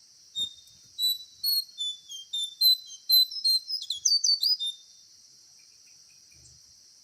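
A bird singing a series of about fifteen short, clear whistled notes that come faster and sweep in pitch toward the end, then stop about five seconds in. A steady high insect drone runs underneath, and there are a couple of faint low thuds.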